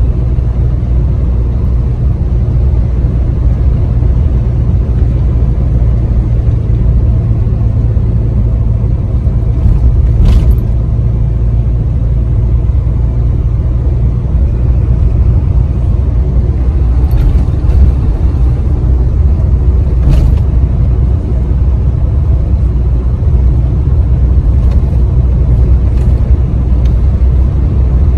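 Ford Ranger pickup truck driving: a steady low rumble of engine and road noise, with a few light clicks.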